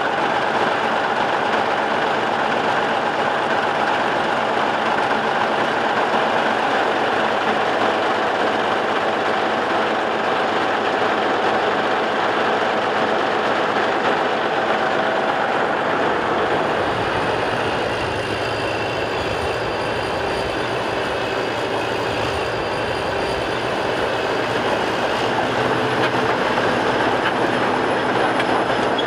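Caterpillar crawler bulldozer running, its steel tracks clanking and squealing over the engine. A deeper rumble comes in about sixteen seconds in.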